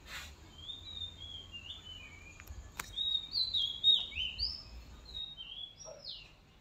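A songbird singing a quick run of short whistled notes that slide up and down, with a single light knock about three seconds in.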